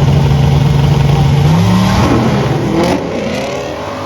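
Car engine under hard acceleration, holding a steady pitch, then changing gear about one and a half seconds in, with the revs climbing again afterwards.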